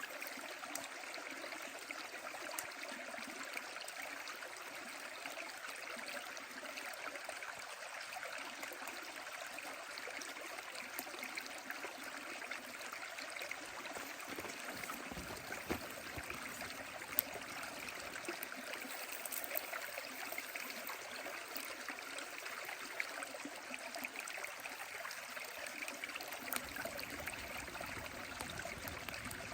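A stream running steadily, with the scattered crackles and occasional sharper pops of a wood bonfire burning.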